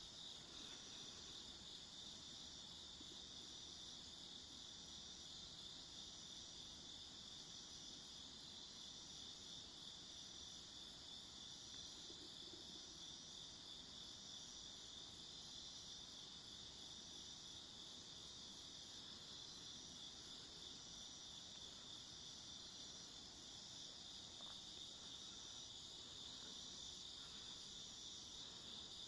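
A faint chorus of insects chirping, typical of crickets: one continuous high trill, with a second insect's short, evenly spaced chirps above it.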